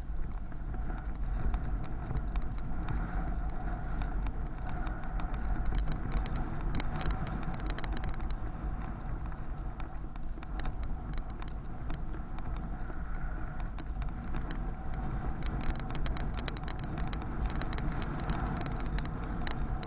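Wind rumbling on the microphone and road noise while riding a bicycle through city streets, with bursts of fast ticking in the second half.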